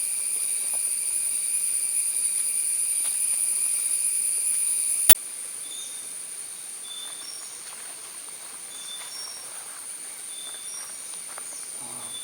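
Cicadas singing, a loud steady high-pitched drone, which cuts off abruptly with a click about five seconds in. After it a fainter insect drone goes on, with short high bird notes repeating every second or so.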